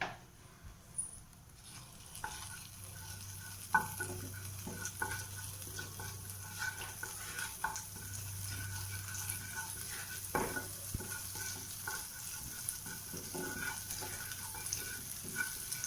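Butter melting and sizzling in a hot pan, the sizzle growing louder over the first few seconds, with a few sharp clicks of a utensil against the pan.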